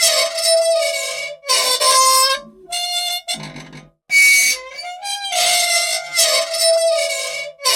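Squeaky old machine, dry and in need of oil, squealing in a cycle of long, high squeaks and shorter ones. The squeals stop for a moment about four seconds in, then the same cycle starts over.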